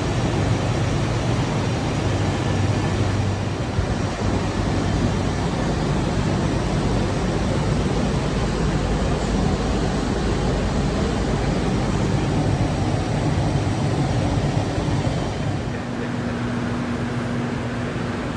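Steady low mechanical rumble and noise from machinery on a truck assembly plant floor. A steady hum joins about 15 seconds in.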